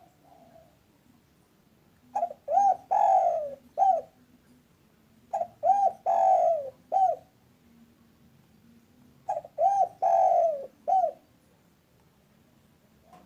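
Spotted dove cooing: three phrases about three and a half seconds apart, each two short coos, a longer drawn-out coo and a closing short coo, with a soft faint coo near the start and another at the end.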